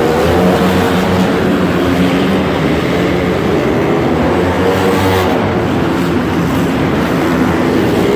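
Race car engines running hard, several pitched engine notes rising and falling together as the cars rev and lift.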